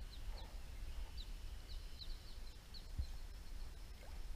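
Small birds chirping: a run of short, quick high chirps over a low steady rumble, with one dull thump about three seconds in.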